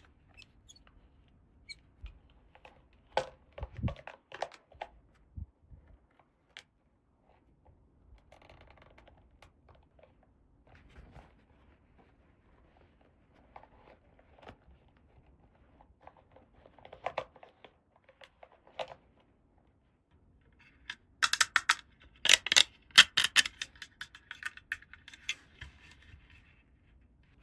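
Small plastic toy pieces and packaging being handled in an unboxing: scattered clicks and taps with soft rustling. Near the end comes a denser run of loud clicks with crinkling.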